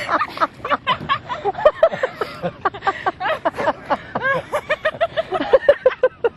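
Several people laughing hard, in quick repeated bursts that overlap throughout.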